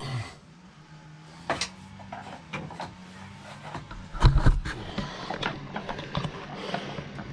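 Hand tools and metal parts clicking and knocking while a motorcycle is worked on, with one heavy low thump about four seconds in, over a faint steady hum.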